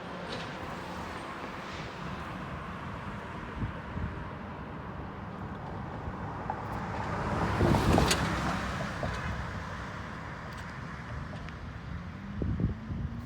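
A road vehicle drives past, growing louder to a peak about eight seconds in and then fading, over steady traffic noise.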